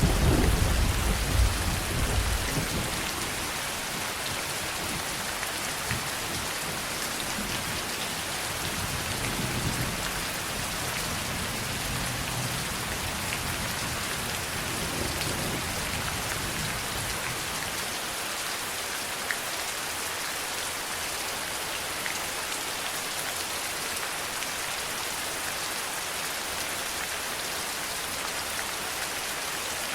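Steady heavy rain falling. The low rumble of a thunderclap dies away over the first couple of seconds.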